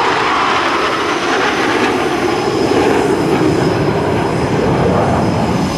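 Jet engine noise from a diamond formation of F/A-18F Super Hornets flying past, loud and steady with its pitch sliding lower as the jets go by.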